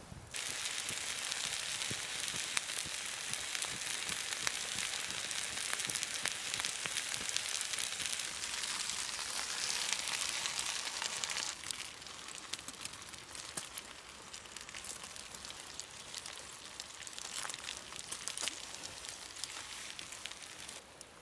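Food sizzling and crackling in a pan over a campfire, a dense hiss full of fine pops. It is louder for the first half and settles to a softer sizzle from about halfway.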